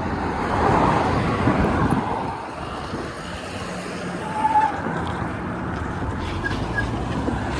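Wind rushing over the microphone and road noise from a moving electric bike, with street traffic in the background.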